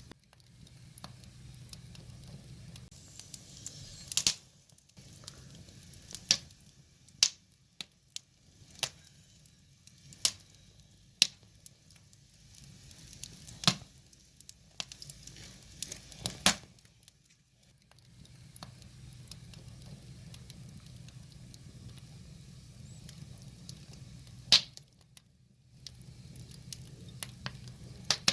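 Burning firewood crackling, with irregular sharp pops from the logs and a steady low hum of flame underneath. About a dozen loud pops are spread unevenly, with a lull of several seconds past the middle.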